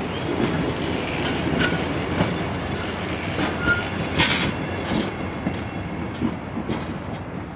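Amtrak passenger train rolling past, its wheels clicking over the rail joints, with a few brief high wheel squeals.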